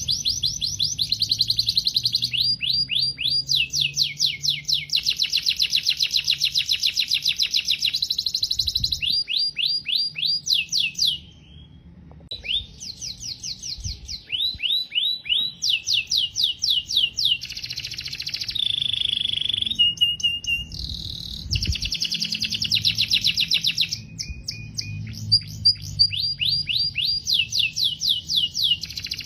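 A canary singing a long song of fast, rapidly repeated trills, high-pitched, with a brief pause partway through and a few held whistled notes later on.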